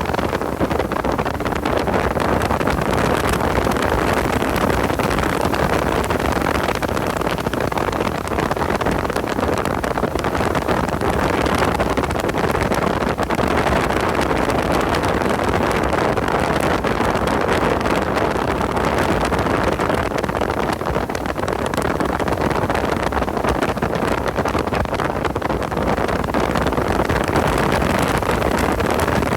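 Car driven hard on a race track: the engine runs under load, mixed with wind and road noise on the microphone.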